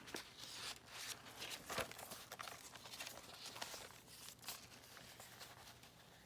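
Faint, irregular rustling and light ticks of paper pages and thread being handled while a needle is worked through the binding holes of a journal signature.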